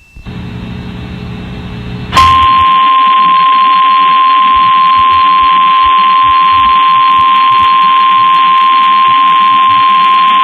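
Emergency Alert System attention signal for a severe thunderstorm warning: a single loud, steady tone with hiss beneath it, starting about two seconds in and held unbroken. It matches the National Weather Service 1050 Hz alert tone. Before the tone there is only a low hum and faint noise.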